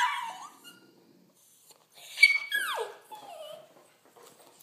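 Dog whining and yowling as it begs for food: a sharp high cry at the start, then two falling whines about two seconds in and a short lower whine after.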